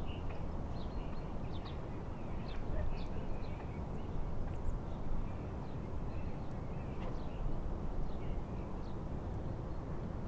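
Steady noise of wind and waves, with many short bird chirps and calls scattered throughout.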